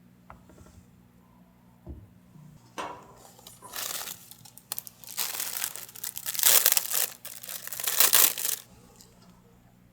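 A soft knock about two seconds in, then several seconds of loud crinkling and rustling, like packaging being handled, which stops abruptly near the end.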